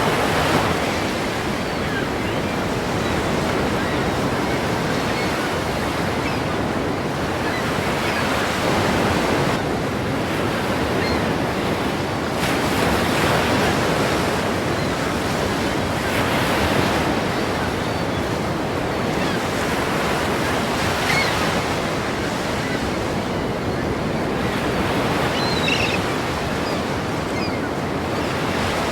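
Ocean surf: waves breaking one after another in a continuous rush, swelling louder every few seconds as each wave crashes.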